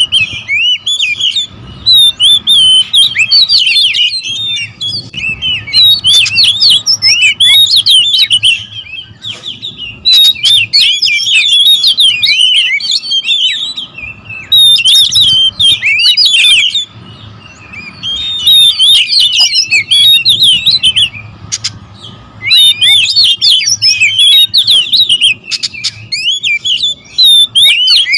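Oriental magpie-robins (kacer), more than one bird, in an agitated territorial squabble. They sing and chatter in loud, dense bursts of fast, varied whistled phrases, each burst a few seconds long, with short pauses between.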